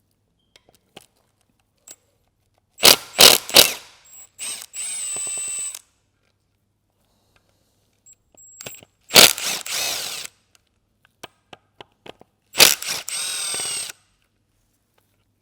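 Power driver run in three short bursts. Each burst starts with a few loud sharp strokes and then spins steadily with a high whine that falls away as it stops, the sound of bolts being run out of the oil pump housing.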